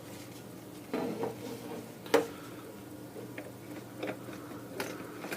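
A few light clicks and taps of small tools being handled at a soldering job, the sharpest about two seconds in, over a faint steady hum.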